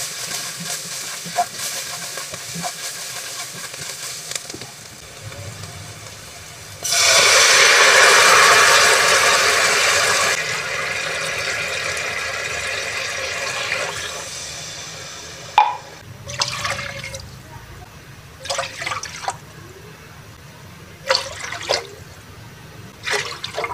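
Food frying in oil in a pot, then a sudden loud hiss as wet ingredients go into the hot pot. The hiss eases off after a few seconds and fades out over several more. After that come a few short, sharp knocks of a utensil or can against the pot.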